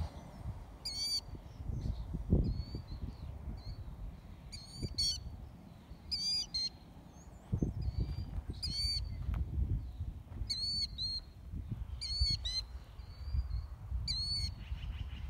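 A bird repeats a short, hooked, high-pitched call every second or two. Under it runs a low, gusty rumble of wind on the microphone.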